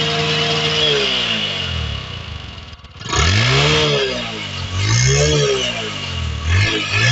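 Bajaj Discover 100M motorcycle's single-cylinder engine revved through its exhaust: held at high revs for about a second, falling back toward idle, then three quick throttle blips, each rising and falling in pitch.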